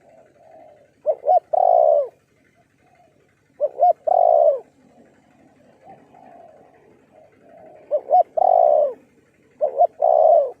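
Spotted doves cooing: four loud calls, each two short notes followed by a longer falling coo, with fainter cooing from another dove between them.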